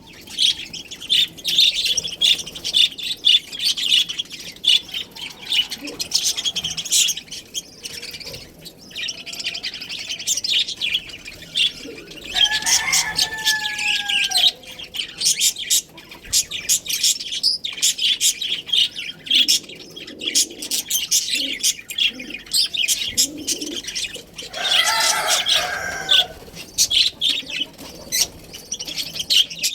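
A flock of budgerigars chirping and chattering continuously in rapid, high-pitched notes. Two longer, lower calls stand out, one about 12 seconds in and one about 25 seconds in.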